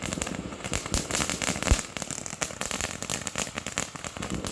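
Firework crackling: a fast, dense run of small pops and snaps, with one louder bang about 1.7 seconds in.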